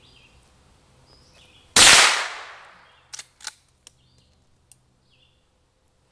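A single shot from a scoped .22 lever-action rifle about two seconds in: one sharp crack with a short fading tail. A few faint clicks follow.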